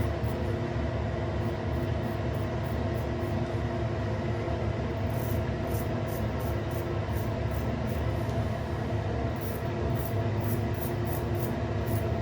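Water running steadily from a tap into a bathroom sink, with a steady low hum under it.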